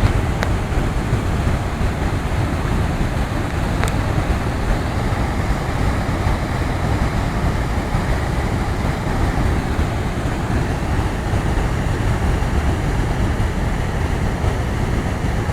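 Steady rushing noise of fast-flowing floodwater, with wind on the microphone.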